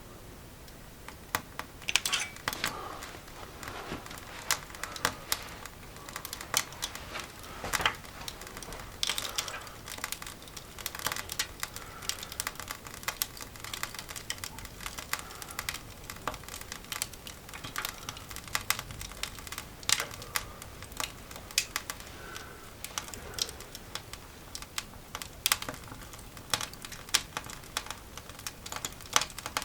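Rapid, irregular sharp clicks and crinkles of paper and kindling being handled in a cast iron dog grate as a coal fire is laid and lit.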